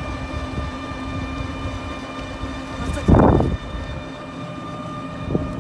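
An engine running steadily over a low rumble, with a brief louder burst about three seconds in.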